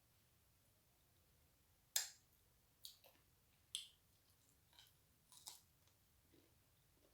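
Mouth sounds of someone eating chicken feet: a few short, sharp wet smacks and clicks of chewing, roughly one a second, with quiet between them.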